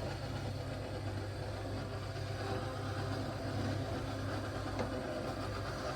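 Steady low machine hum, with a single faint click a little before the end.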